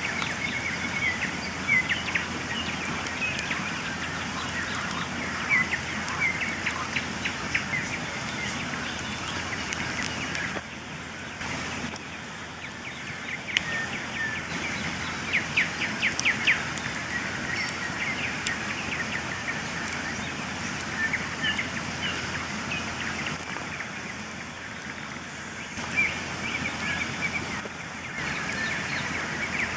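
Campfire crackling, with sharp pops scattered through it. Birds sing and chirp throughout, in short trills and repeated notes.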